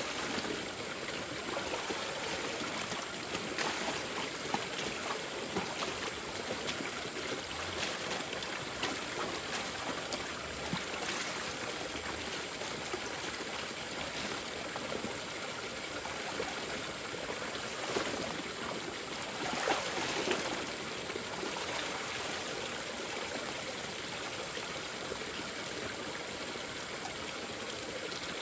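A mountain stream runs steadily, with a few splashes of water as a thick jacket is washed in it: around four, eighteen and twenty seconds in.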